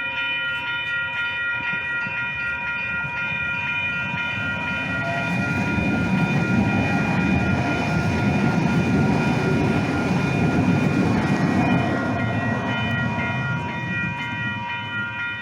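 Train running, with a steady high-pitched whine over the rumble of the wheels; the rumble grows louder about five seconds in and eases near the end.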